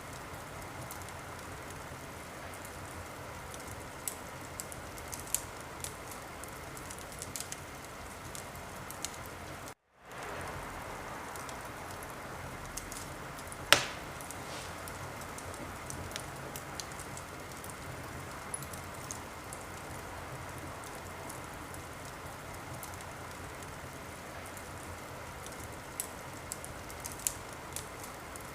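Wood fire crackling in a fireplace: a steady hiss with scattered sharp pops, one much louder pop about halfway through. The sound cuts out for a split second about ten seconds in.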